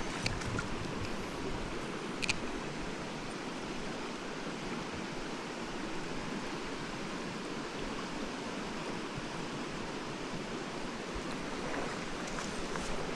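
Mountain stream rushing, a steady wash of water, with a short sharp click about two seconds in.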